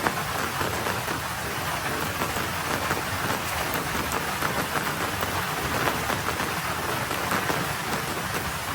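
Light spitting rain falling on a road surface: a steady patter of many small drop impacts.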